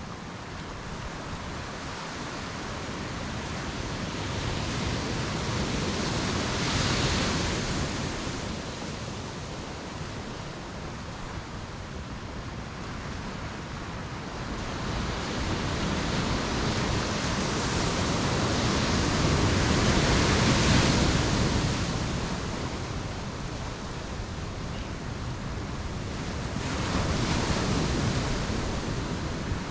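Ocean waves breaking and washing up a beach, a steady surf wash that swells as each wave breaks, three times: about 7 seconds in, a longer, louder one around 20 seconds, and again near the end.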